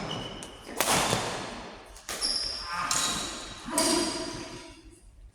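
A rally of sharp hits in a doubles game, four about a second and a half apart, each echoing in a large hall, with short high squeaks between them.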